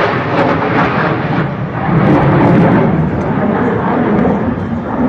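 Jet aircraft roar during a low flypast, a loud rumbling noise that eases slightly near the end.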